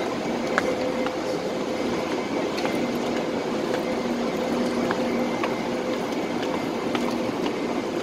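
Trains at a station platform: a steady hum with a constant low droning tone, and a few faint scattered ticks.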